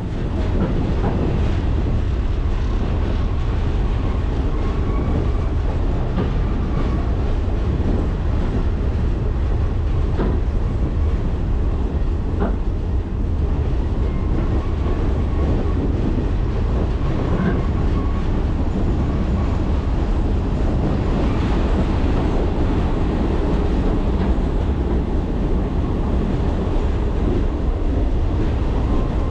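Ride noise of a moving passenger train: a steady low rumble of wheels on the rails, with a few faint clicks over the rail joints.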